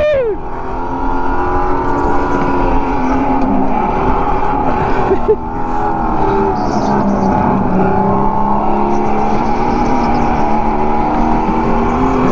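Racing go-kart's motor running hard at speed, its pitch rising and falling as the kart speeds up and slows for corners.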